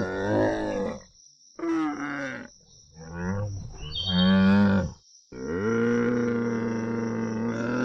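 Large animal's deep, pitched calls: several short bellows, then one long call held at a steady pitch from about five seconds in.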